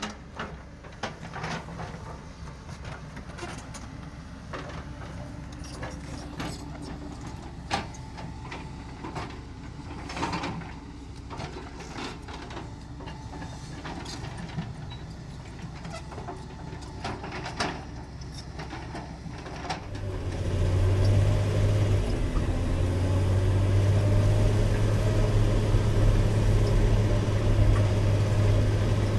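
Caterpillar 120K motor grader's diesel engine running at low revs, with scattered knocks and rattles. About two-thirds of the way through, it throttles up to a much louder, steady drone as the machine works fill over the stones.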